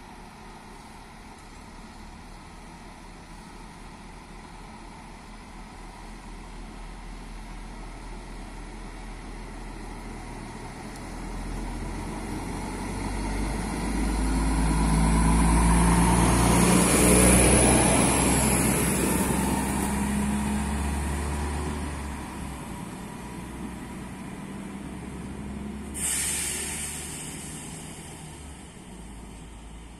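SA135 two-car diesel railcar passing close by: its diesel engine and wheels on the rails grow louder to a peak about halfway through, then fade as it moves off. A sudden hiss near the end dies away over a couple of seconds.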